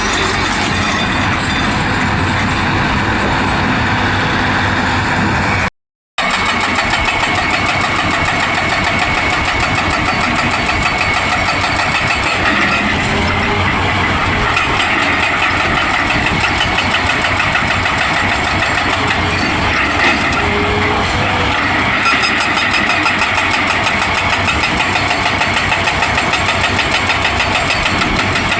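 Excavator running under load with a rapid, steady hammering from its hydraulic attachment. The sound drops out completely for a moment about six seconds in, then resumes.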